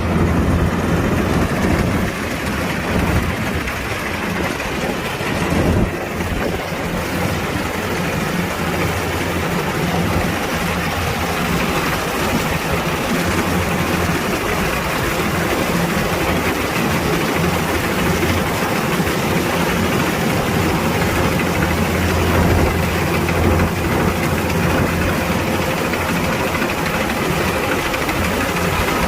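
Kubota DC-105X combine harvester's diesel engine running steadily, a continuous deep machine drone with dense mechanical noise above it.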